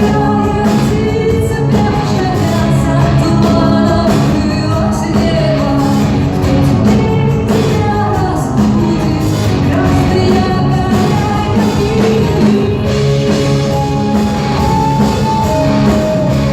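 A rock band playing live, with a woman singing over it, heard through the reverberation of a concert hall.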